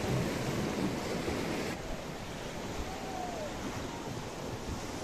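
River water rushing around a raft in white-water rapids, a steady noisy wash with wind buffeting the microphone; it drops somewhat in level a little under two seconds in.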